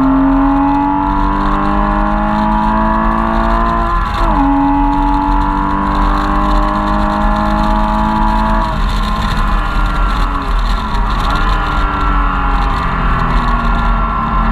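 Porsche Cayman S flat-six engine heard from inside the cabin under hard acceleration on track. The pitch climbs steadily, drops briefly at a quick upshift about four seconds in, and climbs again. Around ten seconds in it falls as the driver lifts off, then rises again near the end.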